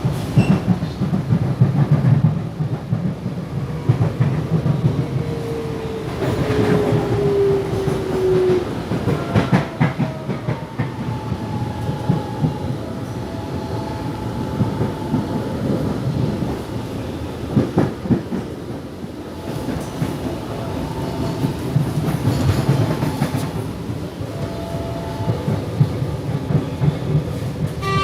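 Alstom Series 8900 electric multiple unit running between stations, heard from inside: a steady wheel-and-track rumble with clicks and knocks over the rails. Faint motor whine tones come and go, one falling in pitch about a quarter of the way in.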